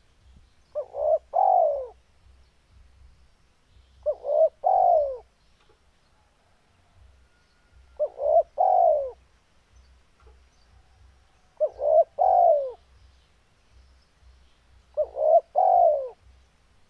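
Spotted dove (tekukur) cooing, a male in breeding condition: five phrases about every three and a half seconds, each two short notes followed by a longer falling coo.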